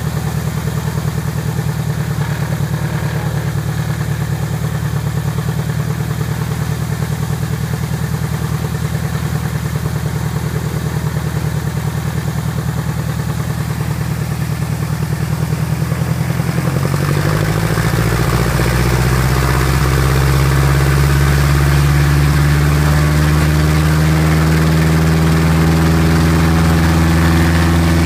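Piper Apache's piston aircraft engines running on the ground, freshly rebuilt. They run steadily at low power, then about 17 s in the rpm rises over a few seconds and holds higher and louder as the engines are run up.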